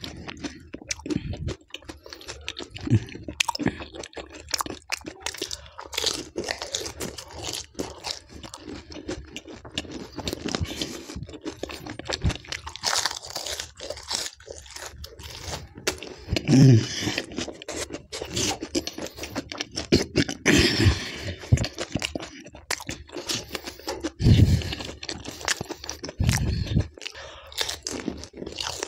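Close-miked chewing and crunching of pani puri, crisp hollow puri shells filled with spiced water and eaten with raw green chillies, as a rapid run of sharp crunches. A few heavier, deeper mouth sounds stand out midway and near the end.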